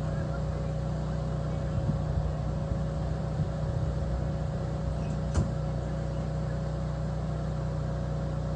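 An engine running steadily: an even, low drone, with a single sharp click about five seconds in.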